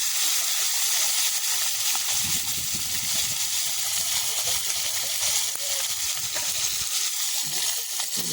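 Fish frying in hot oil: a steady, even sizzle.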